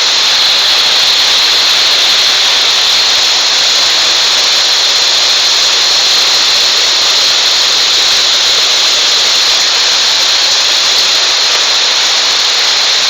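Heavy rain pouring down in a loud, steady hiss with no letup.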